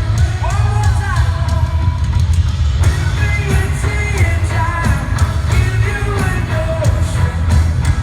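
Live pop-rock band playing loudly, a male lead voice singing over heavy bass and drums, as heard in a concert hall.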